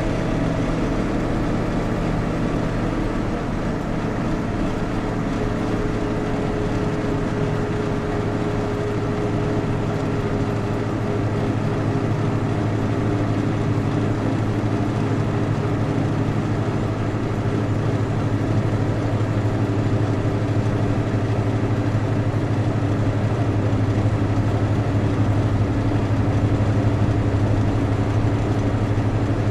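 Vehicle engine running steadily under way, a constant low hum with road noise, heard from inside the cab; it grows slightly louder in the second half.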